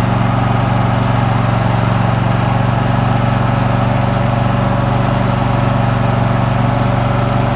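Riding lawn mower's engine running steadily at a constant speed while driving, heard close up from the seat. The engine is loud, with an even, unchanging drone.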